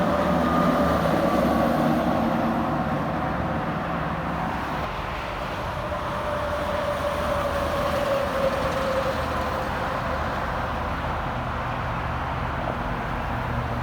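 Interstate highway traffic: heavy trucks and cars passing in a steady rush of engine and tyre noise, with a tone that glides slowly down in pitch over several seconds.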